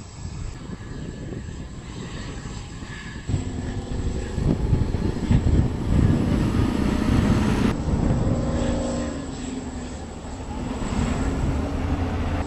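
Engines of the Boeing 747 'Supertanker' firefighting airliner running with a steady hum, growing louder about three seconds in and loudest in the middle.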